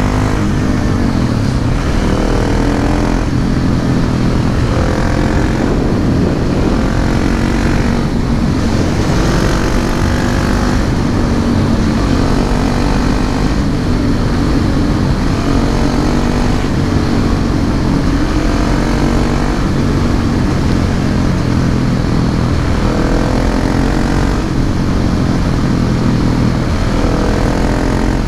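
Husqvarna 701 Supermoto's single-cylinder engine running through an SC-Project slip-on exhaust while riding, its note rising and falling as the throttle opens and closes.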